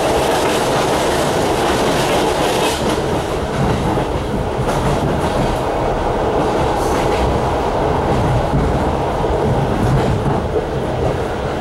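Suburban passenger train running at speed, heard from inside the carriage: a steady rumble of wheels on rails with an occasional clack over rail joints. For the first few seconds a freight train of boxcars passes close alongside on the next track, adding a loud rushing hiss that dies away about three seconds in.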